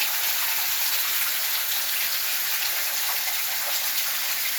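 Heavy rain pouring down, a steady dense hiss with scattered drop ticks.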